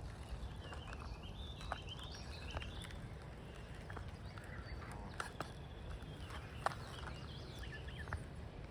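Faint high bird chirps and calls over quiet outdoor background noise, with a few sharp clicks scattered through.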